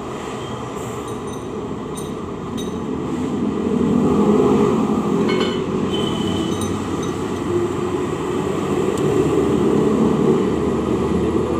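Light metallic clinks of hand tools and bolts against an engine block, a few scattered ticks, over a steady low rumble that swells about four seconds in.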